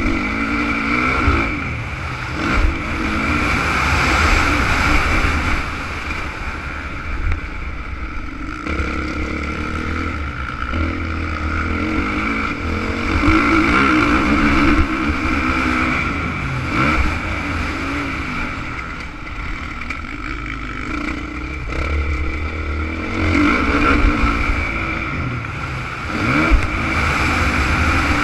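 Honda CRF 450 motocross bike's single-cylinder four-stroke engine revving up and falling off again and again as it is ridden round a track, over a constant low rumble.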